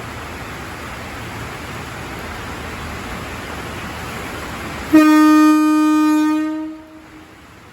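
A steady hiss, then about five seconds in an electric commuter train's horn sounds one long, steady toot for about two seconds before fading away, the departure signal of the JR 205 train as it sets off.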